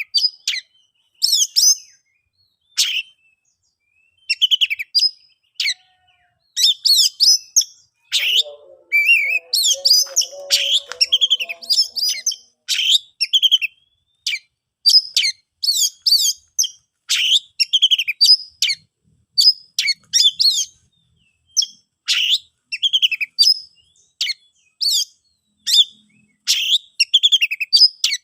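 Oriental magpie-robin (kacer) singing: a long string of short, quick phrases of sharp chirps and whistles, with brief pauses between them.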